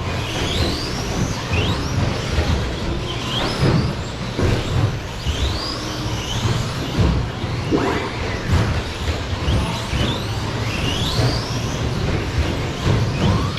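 Radio-controlled short course trucks racing, their motors whining up and down in pitch again and again as they accelerate and brake around the track, over a steady low rumble.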